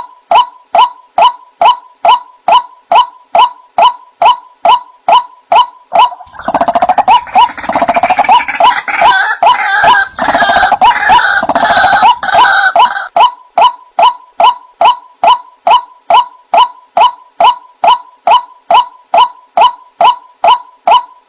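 White-breasted waterhen (ruak-ruak) calling, a steady repeated note about two and a half times a second. From about six to thirteen seconds in, a harsher, denser stretch of overlapping calls comes over it before the plain repeated note returns.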